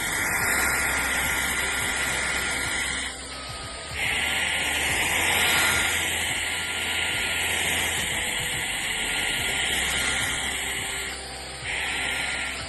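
Shark Detect Clean & Empty cordless stick vacuum running, a steady rushing noise with a thin motor whine. The sound drops briefly twice, about three seconds in and again near the end.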